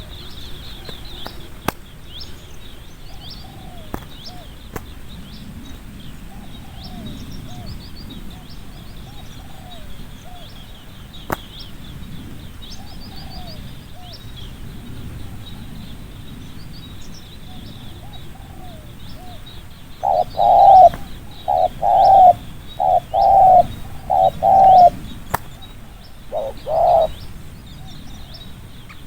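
Spotted dove cooing: soft coo notes through the first part, then, about two-thirds in, a loud quick run of about seven close coos, the rapid 'thúc gù' cooing prized in a good calling dove. Small birds chirp high in the background, with a few sharp clicks.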